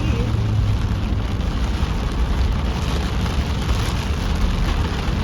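Heavy rain pouring down on a moving car, a steady hiss over the low rumble of the car driving on the wet road.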